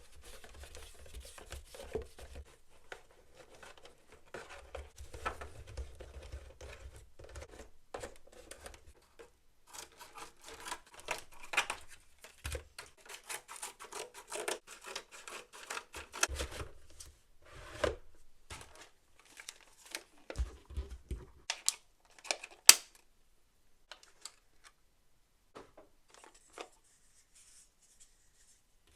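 Toy packaging being handled and opened by hand: dense rustling and scraping of plastic and cardboard with many small clicks and knocks. A few sharper clicks come a little after twenty seconds, then the handling mostly stops.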